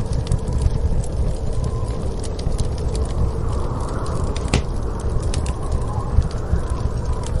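Crackling wood fire: frequent small, sharp pops and snaps over a steady low rumble of storm wind.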